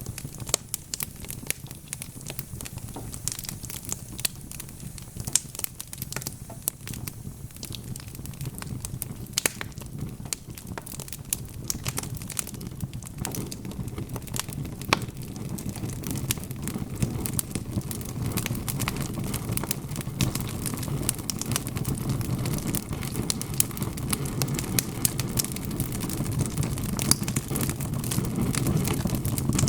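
Wood fire crackling, with frequent sharp pops and snaps over a low rumble of burning that grows louder about halfway through.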